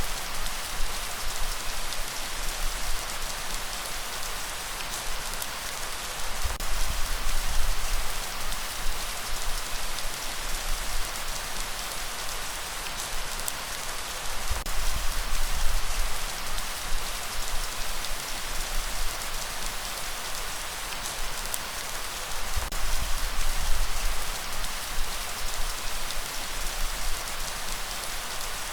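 Steady, dense rainfall hissing, with a low rumble underneath that swells and fades every several seconds.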